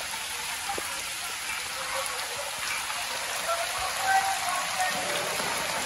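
Heavy rain falling steadily onto standing floodwater, an even wash of drops splashing on the water's surface.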